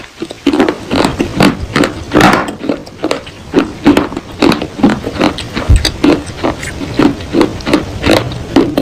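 A person chewing pieces of baked clay pot: loud, crisp crunches, about two a second.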